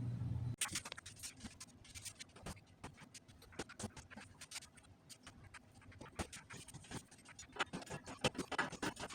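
Irregular small clicks, taps and scrapes of metal bicycle parts and hand tools being handled during assembly, coming faster near the end. A low steady hum cuts off about half a second in.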